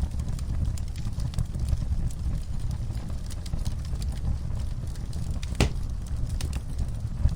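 Wood fire crackling in a fireplace: a steady low rumble of the flames with scattered sharp crackles and one louder pop about three quarters of the way through.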